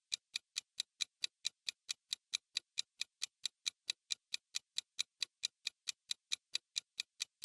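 Countdown timer sound effect: a steady, even clock-like ticking at about four ticks a second.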